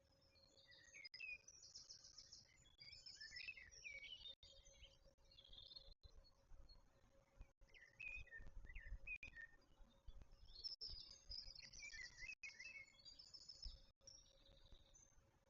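Birds chirping and twittering in quick high notes and short trills, in two bouts, with a faint steady hum underneath.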